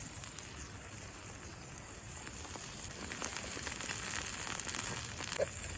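Steak sizzling in a very hot pan over campfire coals: a steady hiss with sharp crackling pops that come thicker from about halfway through.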